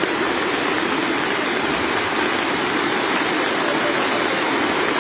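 Fast-flowing floodwater rushing, a steady, even wash of water noise.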